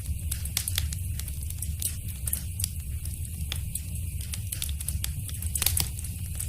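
Wood fire burning in a fireplace: a steady low rumble of flames with irregular sharp crackles and pops, a quick cluster of louder pops near the end.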